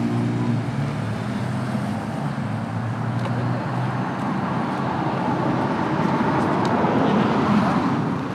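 A motor vehicle running with a steady low hum, then a broad rushing noise that builds to a peak near the end and eases off.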